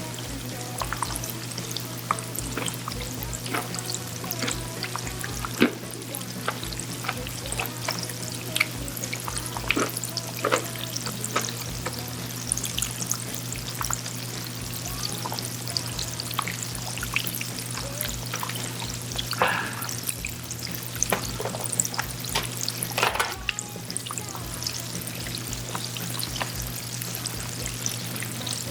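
Chicken deep-frying in hot oil, a continuous sizzle with dense crackling pops, over background music.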